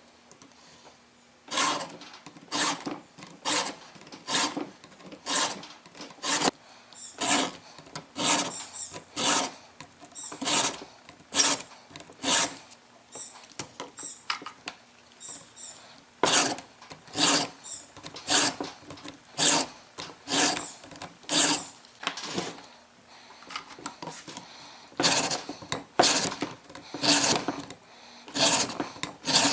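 Hand filing a chainsaw chain with a Stihl sharpener that runs a round file over the cutter and a flat file over the raker together: short rasping push strokes at about one and a half a second, with the file lifted on each return. The strokes stop briefly about 23 seconds in, then resume.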